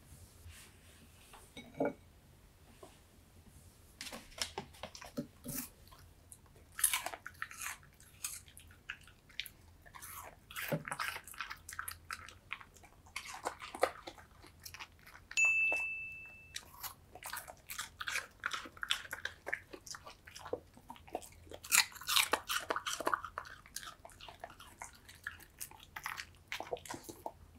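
Mixed-breed spaniel chewing and crunching pieces of pear, a run of quick crunches and clicks. A short, steady, high tone sounds once about halfway through.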